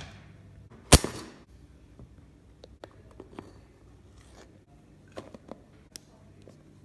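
A sharp knock about a second in, then scattered light clicks and taps of kitchen utensils and baking ingredients being handled.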